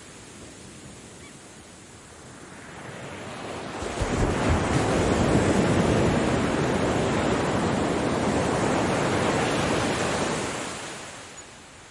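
Ocean surf: a wave swells out of a low hiss, breaks about four seconds in, and washes up loudly for several seconds before fading away near the end.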